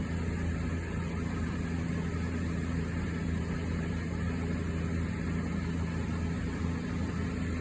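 National commercial-type ventilation fan running steadily: a constant low motor hum under an even rush of moving air.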